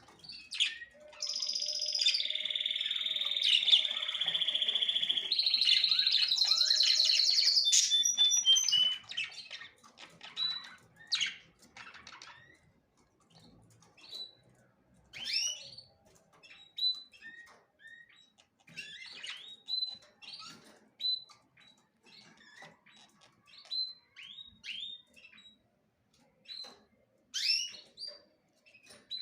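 Small birds chirping and singing: a loud, continuous high twittering song for the first several seconds, then scattered short chirps that fall in pitch, several in quick succession at times.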